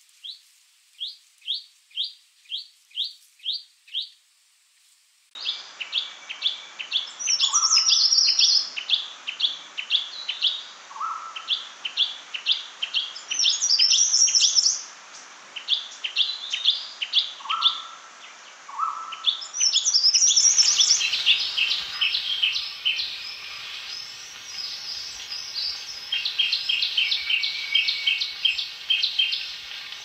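Chestnut-fronted shrike-babbler singing: repeated series of short, even chipping notes, about two a second at first and faster later, with occasional higher warbled phrases. The recording cuts abruptly about five seconds in and again near twenty seconds, with more background hiss and a busier mix of calls after the second cut.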